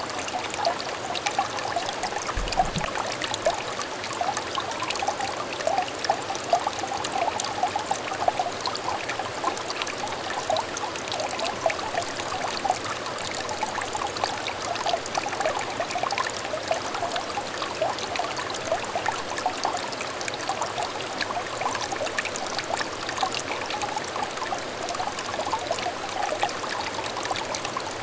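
A small clear stream trickling and burbling steadily over stones, with dense bubbling. A brief faint low thump about two and a half seconds in.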